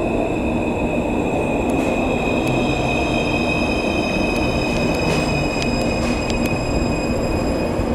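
Taipei Metro C341 train running at speed, with a steady dense rumble and a thin high whine over it that fades near the end.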